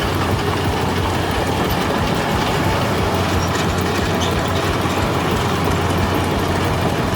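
Heavy machine running, a low steady engine drone under a dense, rapid mechanical clatter.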